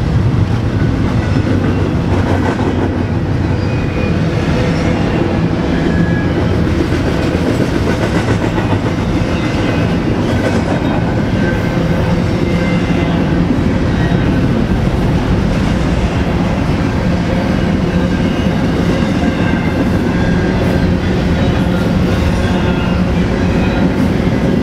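BNSF freight train passing at close range: a steady loud rumble of the cars and wheels on the rails, with a low steady hum underneath.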